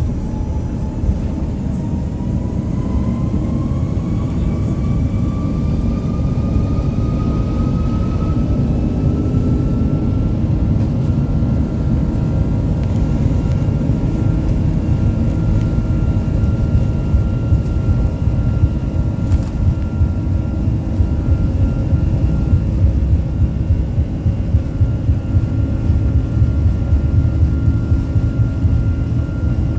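Inside the cabin of an Airbus A330 on its takeoff run: the engines' whine rises steadily in pitch over about ten seconds as they spool up to takeoff thrust, then holds steady over a heavy low rumble.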